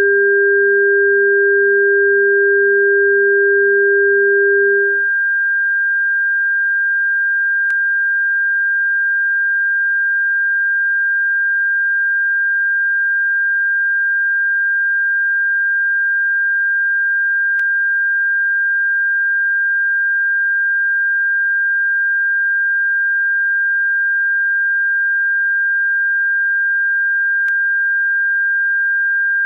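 Electronically generated pure sine tones played as a bird-repellent sound: a steady high-pitched tone throughout, joined at first by a lower tone that cuts off about five seconds in.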